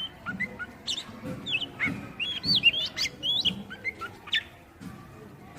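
Oriental magpie-robin (kacer) singing a rapid run of short, varied whistled and chirping notes that slide up and down, stopping about four and a half seconds in.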